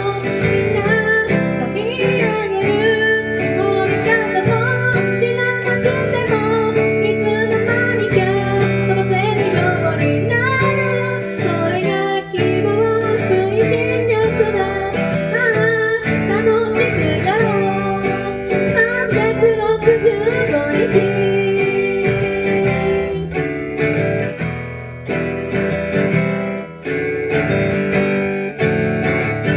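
A song with strummed acoustic guitar chords and a singing voice carrying a wavering melody over them.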